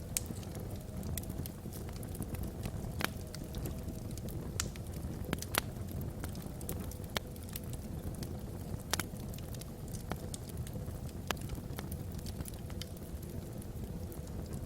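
Wood fire burning in a fireplace: a steady low rumble with constant small crackles and a few louder, sharp pops of the burning logs.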